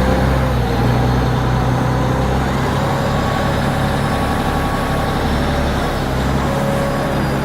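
Shuttle boat's engine running steadily, a low droning hum with a wash of water and wind noise over it.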